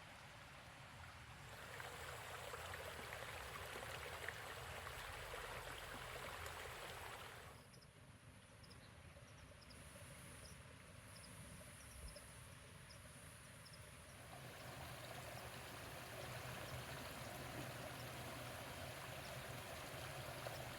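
Rain falling steadily as an even hiss, which drops away suddenly about a third of the way in and comes back about two-thirds through. In the quieter middle stretch, faint short high chirps repeat.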